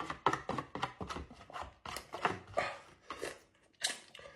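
Cutlery scraping and clicking against a ready-meal tray as curry is scooped up for quick mouthfuls, in a rapid, irregular run of short scrapes and taps.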